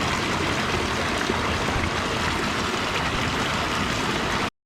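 Steady rush of running water at a trout-farm pond. It cuts off suddenly near the end.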